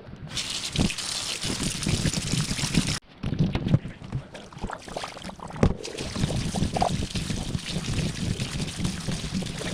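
Water running from a kitchen tap and splashing over fruit being rinsed, with small knocks. The sound breaks off briefly about three seconds in, then picks up again.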